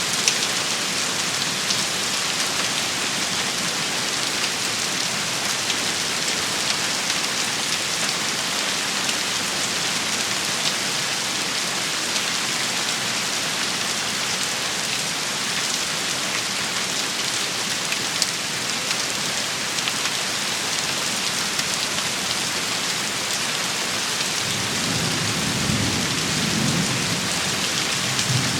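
Rain shower falling steadily: an even hiss with scattered sharper drop hits. A low rumble comes in near the end.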